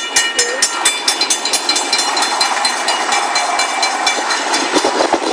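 Long train's cars rolling past at a grade crossing, the wheels rumbling and clicking over the rails. A crossing bell rings rapidly over it, about four strokes a second.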